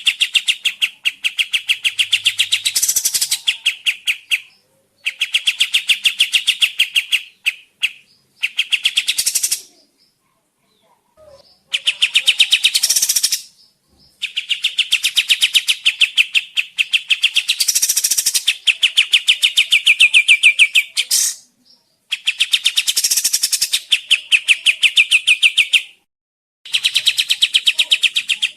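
Kapas tembak (a bulbul) singing: phrases of fast, rattling, evenly repeated notes, each phrase lasting a few seconds, with short pauses between them.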